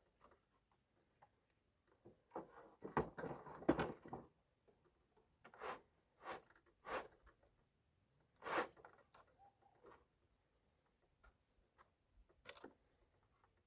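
Faint, irregular knocks and clunks. A quick cluster of them comes about two to four seconds in, then single knocks a second or two apart.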